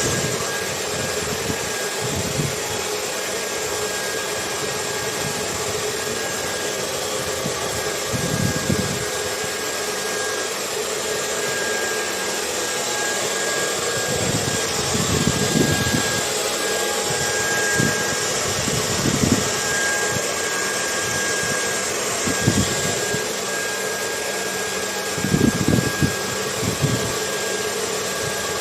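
Hair dryer blowing steadily with a thin, high motor whine, mixed with wind that rises now and then into low, irregular gusts.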